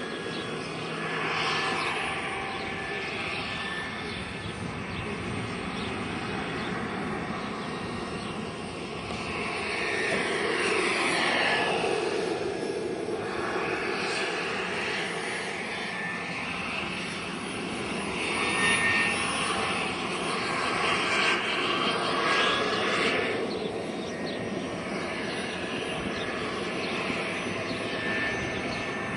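JetCat PHT3 gas turbine of a radio-controlled Hughes 500E model helicopter running in flight: a steady high whine under a rotor rush that swells and fades several times as the model comes nearer and moves away.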